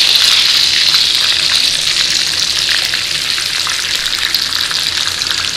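Panko-crumbed chicken breasts shallow-frying in hot oil in a frying pan: a steady loud sizzle with fine crackling spatter.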